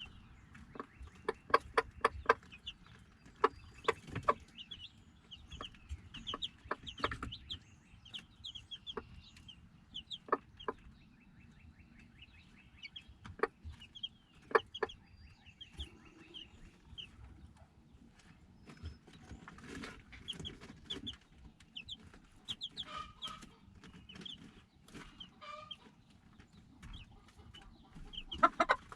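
A flock of chickens clucking, with many short, sharp calls and repeated short high peeps scattered throughout.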